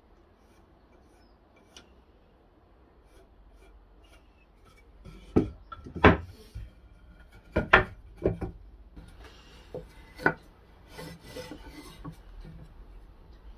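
Pieces of wood being handled: a quiet start, then several sharp wooden knocks in the middle, mixed with rubbing and scraping of wood.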